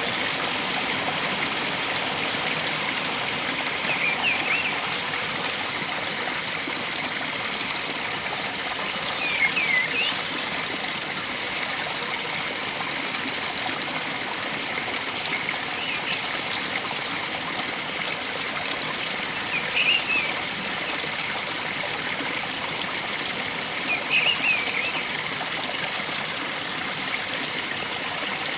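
Steady rush of flowing stream water, with a bird's short chirping call heard four times, several seconds apart.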